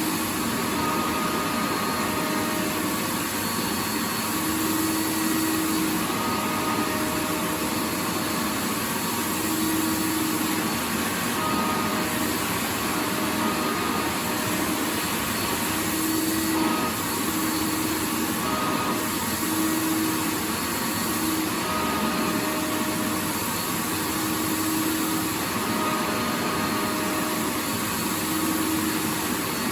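Vacuum cleaner running steadily: an even rushing noise with a faint motor hum that fades in and out every second or two.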